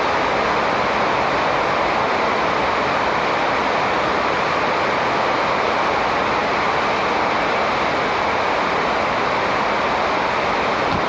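Steady, loud rushing noise with no birdsong or other distinct calls standing out.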